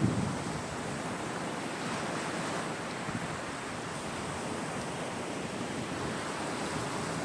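Sea waves breaking and washing on a beach in a steady surf, with a louder surge of water right at the start.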